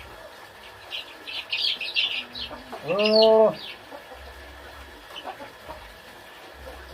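A quick run of high, short bird chirps, then one louder, lower call lasting under a second, about three seconds in.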